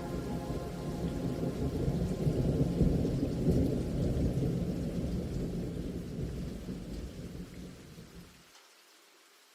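Rolling thunder with rain: a low rumble that swells about two to three seconds in, then fades away near the end.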